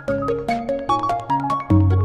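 Ambient modular synthesizer music: a sequence of short pitched synth notes stepping through a melody, over quick, evenly repeating white-noise ticks from the Moog Mother-32. A strong low bass note comes in near the end.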